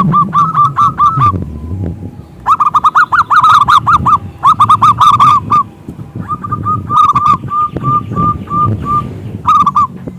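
Zebra dove (perkutut) cooing in several phrases of rapid, evenly repeated notes, with short pauses between the phrases.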